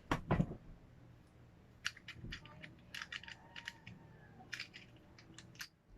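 Irregular small clicks and light knocks of a ring light's stand parts being handled and detached during assembly.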